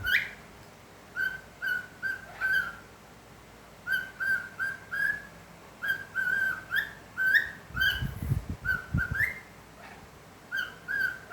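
Pet parrot whistling a tune in runs of three to five short, evenly pitched notes, some ending in an upward flick, with short pauses between the runs. A few dull low thumps come about eight seconds in.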